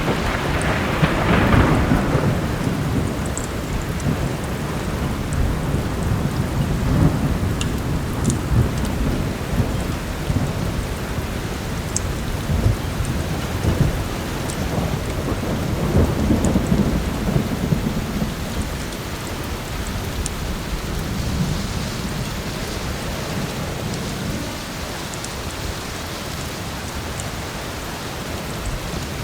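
Heavy rain falling steadily, with low thunder rumbling near the start and twice more, about a quarter and half way through. Occasional sharp crackles from a wood fire sit on top.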